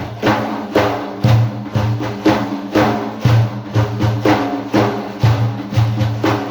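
Drums beating a steady rhythm of about two strokes a second, with heavier low beats about once a second, over a steady held tone. It is an instrumental passage of a madih chant.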